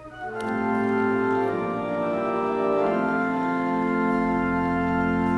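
Organ playing slow, sustained chords, with a deep bass note coming in near the end.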